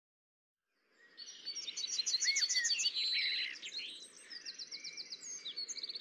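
Birds chirping and singing: quick high trills and repeated chirps, loudest in the first half, which begin about a second in and cut off abruptly at the end.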